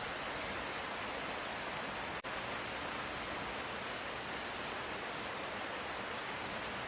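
Steady light rain, an even hiss with no thunder, broken by a split-second dropout about two seconds in.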